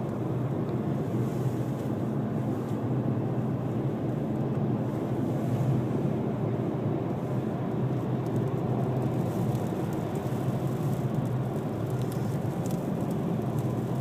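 Steady road and wind rumble heard inside a car driving at highway speed through a sandstorm.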